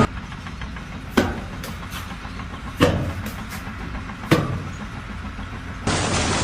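A steady low engine rumble with three sharp knocks about a second and a half apart and a few lighter clicks between them; a louder, fuller sound comes in near the end.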